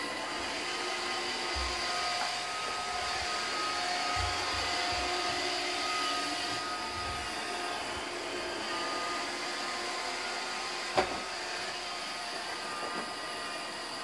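iRobot Roomba 620 robot vacuum running, a steady motor whir with a few held whining tones, and one sharp knock about eleven seconds in.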